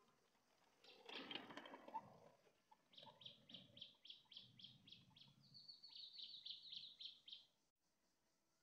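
Faint outdoor birdsong. A rough, harsh call comes about a second in, then a bird repeats a short high note about five times a second, and this runs into a quicker, slightly higher trill that stops near the end.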